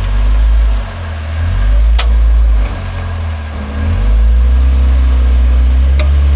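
Off-road vehicle's engine working over rocks, its revs surging up and dropping back several times as the driver feathers the throttle. There are two sharp knocks, about two seconds in and near the end.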